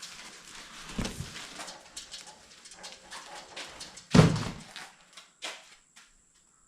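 Rustling and light knocks from parts and packaging being handled, then one loud thump about four seconds in, followed by a few faint clicks.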